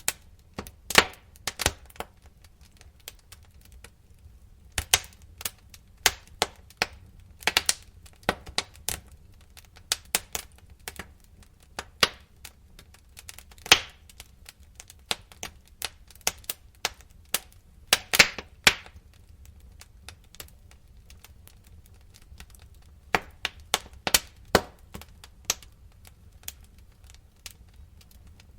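Wood fire crackling in a fireplace: irregular sharp pops and snaps, some loud and some faint, over a faint low rumble, with quieter stretches around four seconds in and again after twenty seconds.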